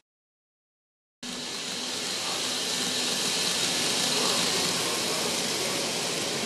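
N-gauge model KiHa 81 series diesel train running on the track: a steady rushing of wheels on rail with a faint motor whine, swelling a little as it passes. The sound comes in abruptly after a second of silence.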